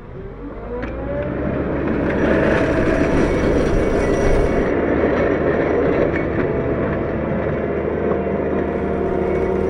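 Diesel engine of a Cat 908 compact wheel loader revving up in the first second, then running steadily at high revs under load. A brief hiss of higher noise rides over it in the middle.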